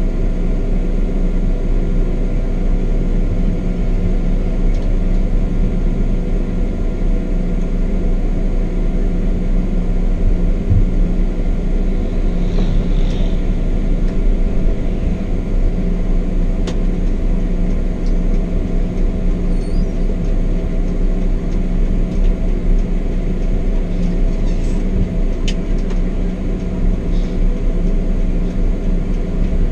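Scania K420 double-decker coach running at a steady cruise: a constant engine drone and road rumble that holds its pitch, with a few faint ticks.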